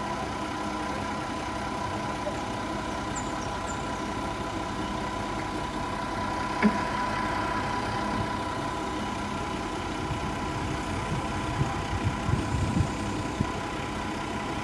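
Engine idling steadily with a high whine running over it. There is a single sharp click about halfway through and a few low knocks near the end.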